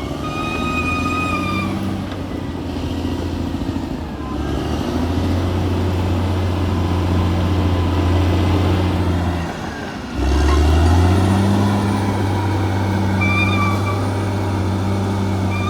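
Caterpillar bulldozer's diesel engine running steadily under load. It breaks off briefly about ten seconds in, then picks up again slightly louder.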